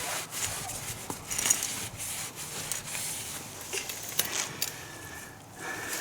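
Irregular rubbing and scraping with a few light clicks, as of hand work on parts.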